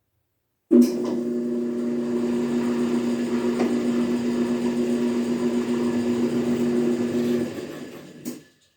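Small motor driving a home-rigged planer by a serpentine belt: switched on abruptly, it runs with a steady hum for about seven seconds, then is switched off and winds down, with a click near the end.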